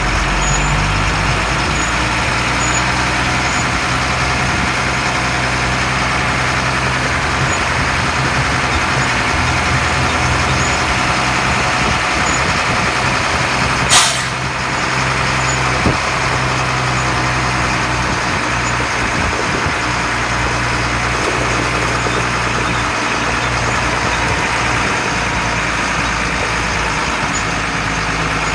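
LMTV M1078 military truck's diesel engine running steadily, with one brief sharp hiss about halfway through.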